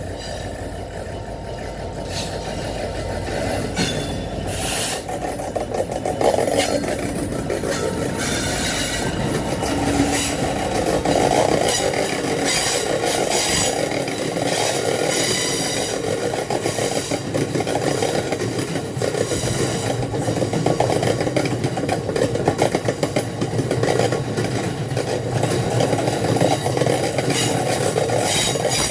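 Freight train passing close by: the low rumble of the Class 66 diesel locomotive during the first few seconds, then a long rake of stone wagons rolling past with a steady run of wheel clatter and knocks over the rail joints.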